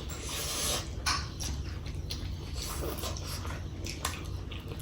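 A person eating chicken curry and rice: wet chewing and lip-smacking, a string of short clicks.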